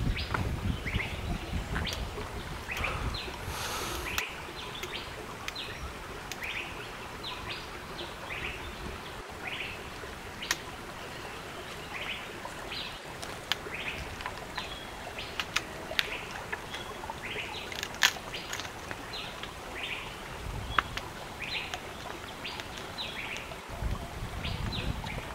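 Birds chirping, short high calls every second or so, with a few sharp clicks among them.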